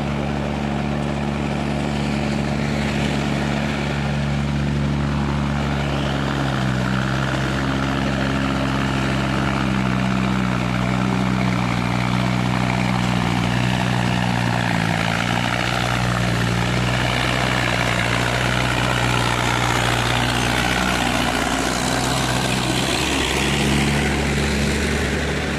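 Hindustan 60 tractor's diesel engine running steadily under power, its pitch drifting a little up and down.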